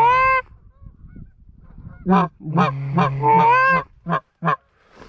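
Loud goose honking: a drawn-out honk right at the start, a short pause, then a quick run of short honks and clucks with another long honk about three and a half seconds in.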